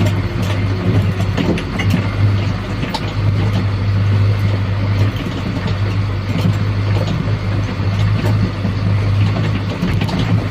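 Isuzu Elf NMR truck's diesel engine running steadily while carrying a full load, a constant low drone that holds an even pitch.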